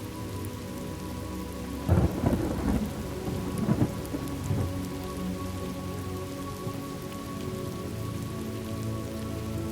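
Steady rain with a thunderclap about two seconds in, a sudden crack that rolls into rumbling and dies away a few seconds later.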